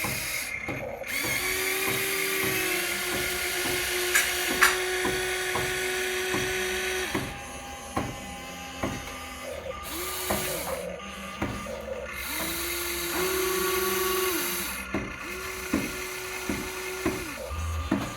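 Small electric motors and gearboxes of radio-controlled construction models whirring. They run steadily for the first several seconds, then in short bursts of a second or two that spin up and wind down, with sharp clicks in between.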